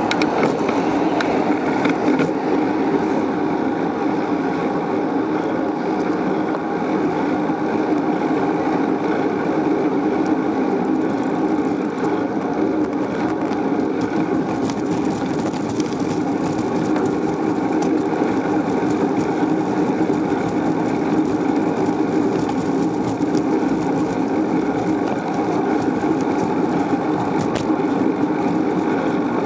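Steady wind and rolling noise from a bicycle being ridden, picked up by a camera carried on the ride.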